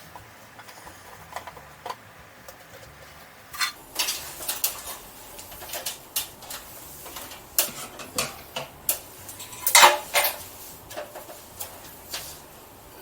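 Irregular clicks, knocks and clatter of plastic and metal parts as a ceiling light fitting is taken apart and lowered by hand, with the loudest knocks about ten seconds in.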